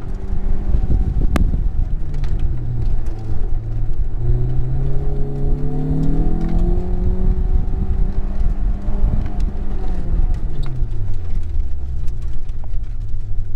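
Honda S2000's four-cylinder engine heard onboard during an autocross run: its note dips, climbs steadily for a few seconds, then falls off to a lower, steady note near the end, over a constant low rumble. A single sharp click comes about a second and a half in.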